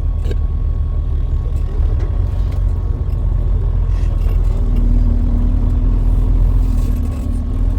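Semi-truck running, a steady low rumble of engine and road noise, with a steady hum joining about halfway through.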